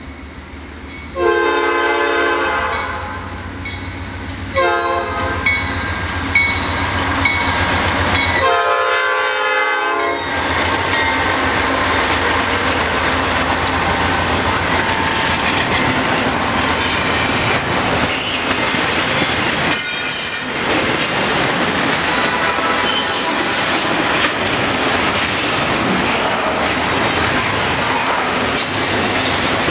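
Nathan Airchime P5 five-chime horn on a Norfolk Southern GE C44-9W locomotive blowing three blasts, the middle one shorter. Then a long double-stack intermodal train rolls by with steady wheel-on-rail noise, clickety-clack over the rail joints and brief high wheel squeals.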